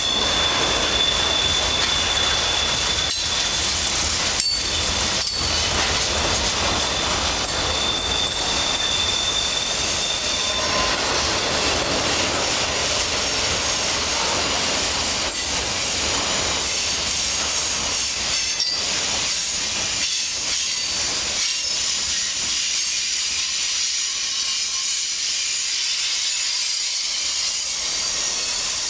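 Freight cars of a long freight train rolling past close by: a steady rumble and hiss of steel wheels on rail, with occasional sharp knocks. A high, thin wheel squeal runs through about the first ten seconds.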